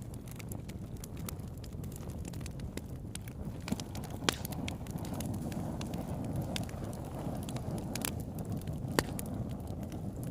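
Campfire burning: a steady low rumble of flames with frequent sharp crackles and pops, two of them louder about four and nine seconds in.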